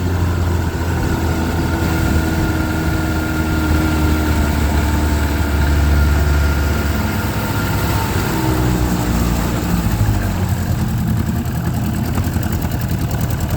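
1984 Johnson 25 hp two-cylinder two-stroke outboard motor running steadily under way, then throttled back about eight seconds in, its pitch falling as it slows toward idle near the end.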